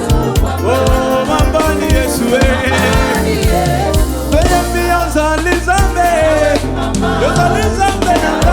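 Gospel praise-and-worship band playing, with a sung melody over a steady bass line and drum strikes.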